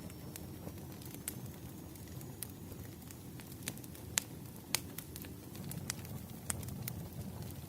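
Wood fire burning: a steady low rumble of flames with irregular sharp crackles and pops, the loudest two a little past four seconds and just before five seconds.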